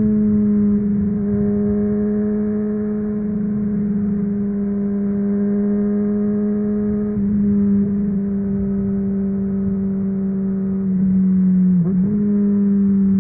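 Honda CBR600RR inline-four running through a MIVV Suono aftermarket exhaust, held at steady revs on the move, its pitch easing down slowly. Near the end the revs dip briefly and come straight back up.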